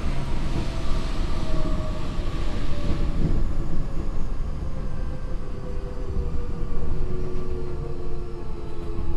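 Tokyo Metro 8000 series train heard from inside the car: the whine of its Mitsubishi IGBT VVVF inverter and traction motors, several tones drifting in pitch, over the low rumble of the wheels on wet rails. A hiss in the mix dies away about three seconds in.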